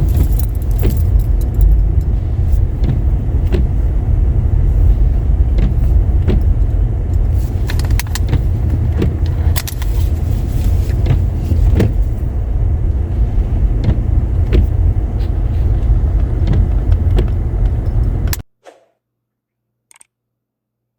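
Car driving on a wet, slushy road: steady low road and engine rumble with scattered light clicks, cutting off suddenly near the end.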